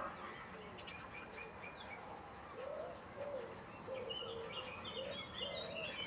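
Birds calling: short high chirping notes, and from about two and a half seconds in a run of low cooing notes about twice a second.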